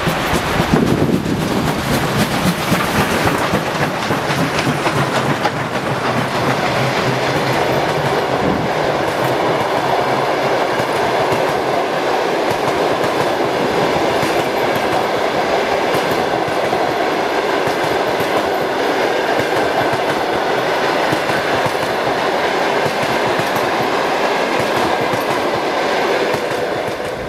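A train running along the track, its wheels clattering over the rail joints. The clicking is densest in the first few seconds, then settles into a steady rolling rumble.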